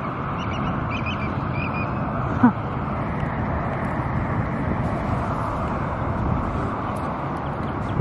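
Steady outdoor background noise of wind and road traffic, with faint high bird chirps in the first two seconds and one brief, sharp sound about two and a half seconds in.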